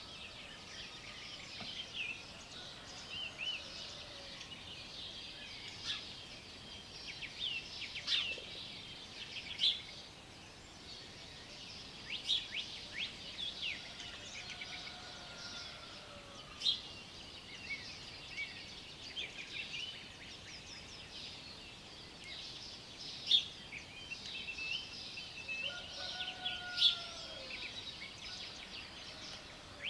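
Morning chorus of many small songbirds chirping and trilling over one another. A distant rooster crows three times: near the start, in the middle and near the end.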